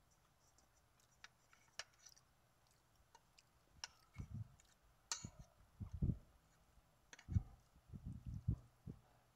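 Faint close-up chewing: scattered crisp clicks and, from about four seconds in, irregular clusters of low thuds.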